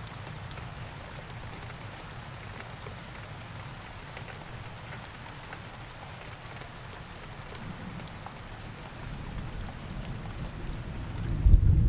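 Steady rain, with single drops ticking now and then. Near the end a low rumble of thunder builds and swells loud.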